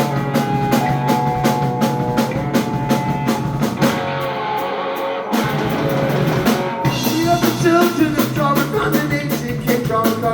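Live rock band playing an instrumental passage with drum kit, electric guitar and bass. About four seconds in, the drums and cymbals drop out for roughly a second, then the full band comes back in.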